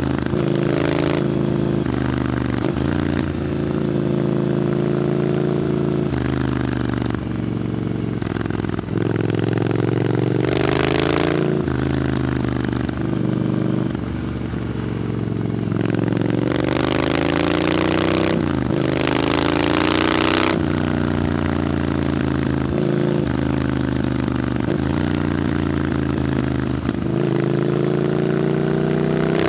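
Triumph Scrambler 900's parallel-twin engine through an Arrow aftermarket exhaust while riding. The pitch climbs under acceleration several times and drops back at each gear change or roll-off, with a rushing hiss during the harder pulls.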